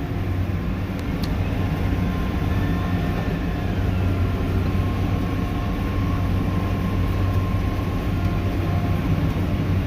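Case IH tractor's diesel engine running steadily under load while mowing hay, with a faint whine rising in the middle.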